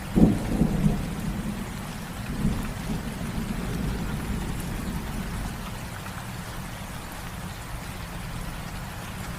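Low, steady rumble of a train running, with a few louder low thuds in the first second.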